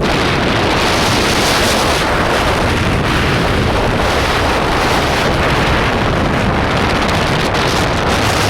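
Very high winds blowing hard, with wind buffeting the microphone as a low rumble under a loud, steady rushing hiss. A strong gust sets in at once, and the hiss stays up through the whole stretch.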